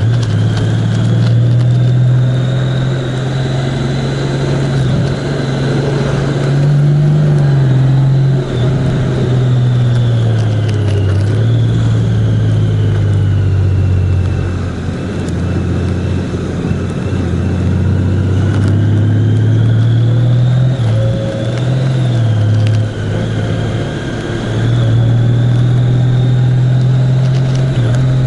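A vehicle engine running on the move, its pitch rising and falling with speed, over steady road and wind noise. There are brief dips in loudness a few times as the throttle eases.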